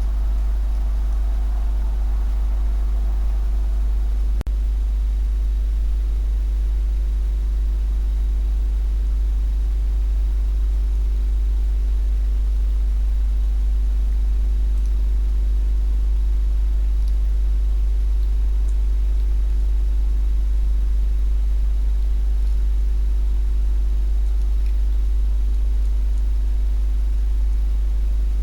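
A steady low hum that never changes, with a few fainter steady tones above it and a single brief click about four seconds in.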